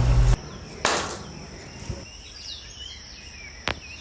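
Faint bird chirps over a steady high insect buzz, with a brief rustle about a second in and a sharp click near the end.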